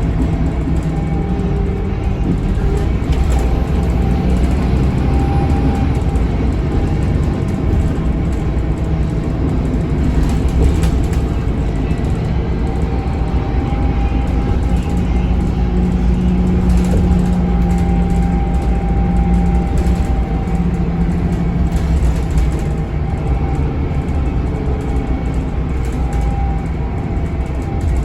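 Scania K280UB bus's 9-litre five-cylinder Scania DC9 diesel running under way, a steady low drone with road noise. The engine tone grows stronger for a few seconds around the middle, then eases back.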